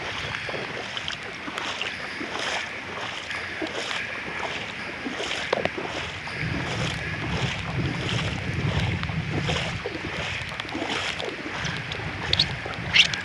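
Footsteps wading through shallow floodwater, the water sloshing with each step at a walking pace.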